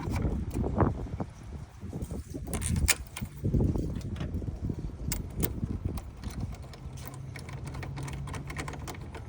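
Irregular metal clinks and knocks, with a few duller low thumps, as a socket wrench and bolts are handled to fasten a car's air vent cover back in place.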